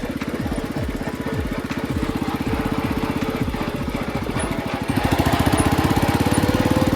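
Small engine of a homemade tractor running under load in second gear with an even, rapid firing rhythm; about five seconds in it gets louder.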